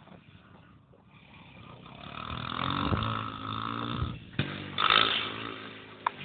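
250cc motorbike engine revving, growing louder over the first few seconds, then dropping in pitch, with a second loud burst about five seconds in and a couple of sharp clicks.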